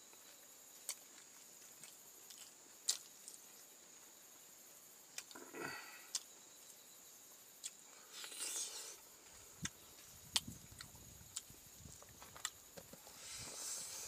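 Close-miked eating sounds: a man chewing mouthfuls of rice and fish eaten by hand, with sharp mouth clicks and smacks scattered through and two longer stretches of chewing, one about eight seconds in as a handful goes into his mouth and one near the end.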